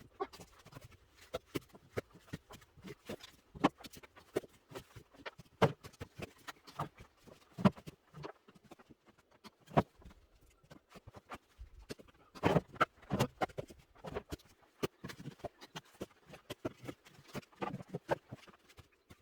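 Split oak firewood logs knocking and clattering against each other as they are handled and stacked: irregular wooden knocks, a few at a time, with a denser run of louder knocks about two thirds of the way through.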